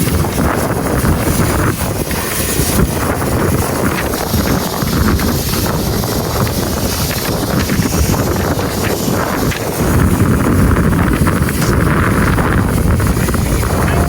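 Wind buffeting the microphone over a low, steady rumble, with the level rising a little about ten seconds in.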